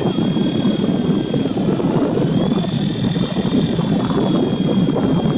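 Twin brushed motors of a WLtoys V915-A scale RC helicopter running in flight: a steady high whine that steps up slightly in pitch about two seconds in, over a loud rushing noise.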